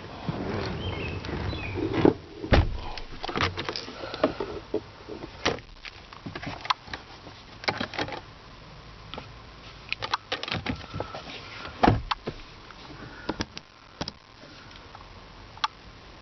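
A string of sharp clicks and knocks from a 2006 Jeep Commander's interior fittings being handled, with two heavier thumps about two and a half seconds and twelve seconds in.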